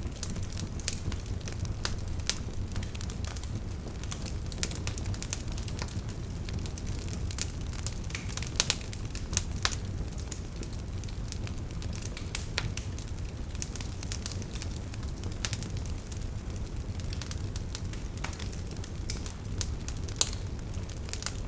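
Wood campfire crackling: a steady stream of sharp snaps and pops from the burning firewood, with a few louder pops about nine seconds in, over a low steady rumble.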